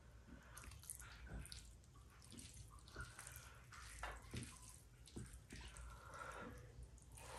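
Faint wet eating sounds: close-up chewing and squishing of rice and curry, with irregular soft clicks and smacks several times a second.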